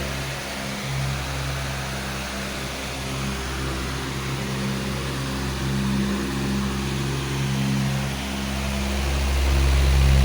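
Powerful electric fan running steadily: a low motor hum with overtones under a rush of air, its level wavering gently and swelling near the end.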